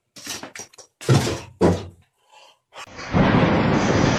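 A short run of knocks and thuds, the two heaviest about a second and a second and a half in. About three seconds in, a loud continuous noise starts.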